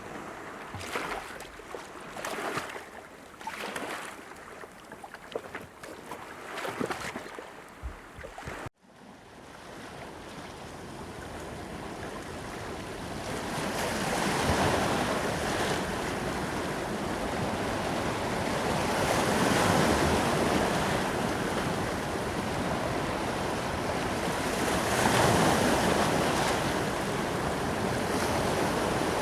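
Water lapping and splashing in irregular small bursts. About nine seconds in it cuts abruptly to ocean surf, a steady wash of breaking waves that swells and eases every few seconds, with some wind on the microphone.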